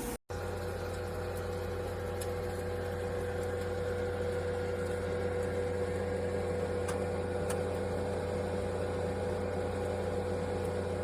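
Steady hum of a countertop convection toaster oven air fryer running, its fan and motor giving a constant tone over a low drone. A few faint clicks sound partway through.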